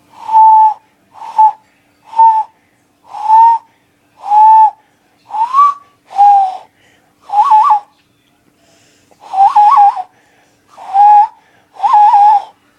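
Hand-cupped owl call: breath blown across the thumb knuckles into cupped hands, making about a dozen breathy hoots around 1 kHz, one after another. Most hold one pitch, while a few bend upward or warble.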